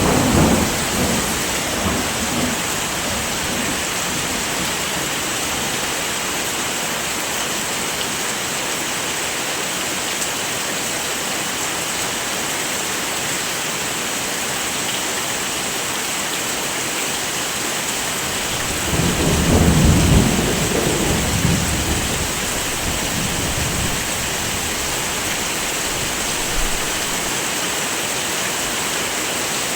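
Steady heavy rain. A low roll of thunder rumbles up about two-thirds of the way through, and the tail of an earlier roll fades out at the start.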